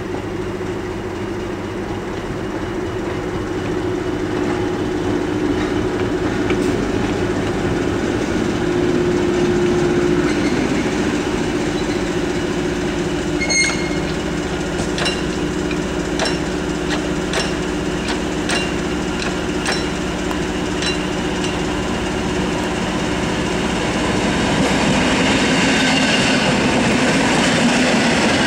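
EN57 electric multiple unit approaching and rolling past at low speed, with a steady hum. From about halfway through, its wheels click over rail joints and points about once a second, and the sound grows louder as the train passes close near the end.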